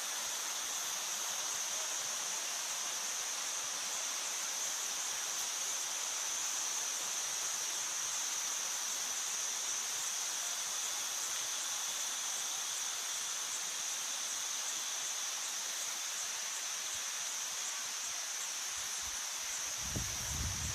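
Steady rushing of the Bousra waterfall, with a high-pitched drone held over it throughout. A few low thuds near the end.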